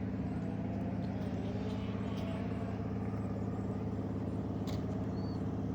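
A car engine idling steadily at an even pitch, with a single light click near the end.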